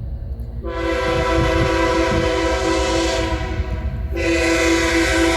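CSX diesel locomotive's air horn sounding two long blasts: a steady multi-note chord that starts about half a second in, breaks off briefly near the four-second mark, and sounds again. A steady low rumble runs beneath it as the engine approaches.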